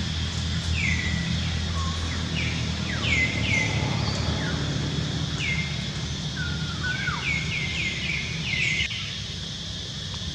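Bird calls: short chirps that each drop sharply in pitch, given in quick runs of two to five with gaps between, over a steady low hum and a steady high hiss.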